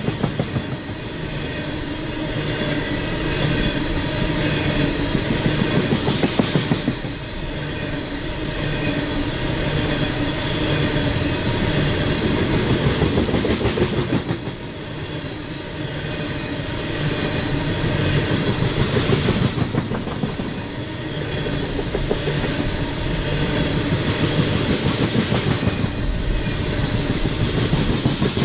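Freight train cars rolling past on jointed rail, the wheels clacking steadily over the rail joints, the sound swelling and easing every few seconds.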